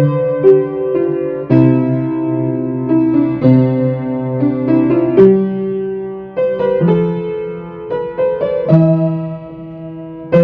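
Solo piano playing a Christmas carol, with melody notes and sustained chords struck one after another.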